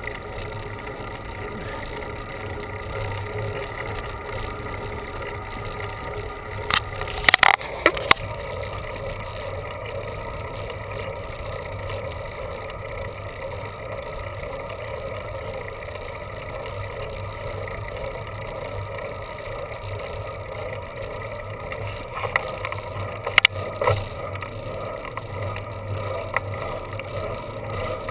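Steady rolling noise of a bicycle on the road, tyre hum and wind, with short sharp clatters twice, about a quarter of the way in and again near the end.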